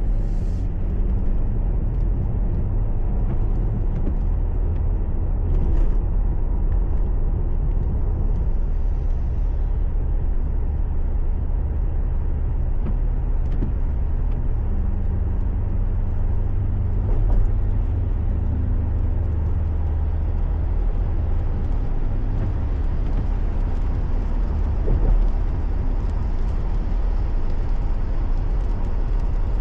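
Car engine and road noise heard from inside the cabin while driving: a steady low rumble with a faint engine hum and a few small bumps.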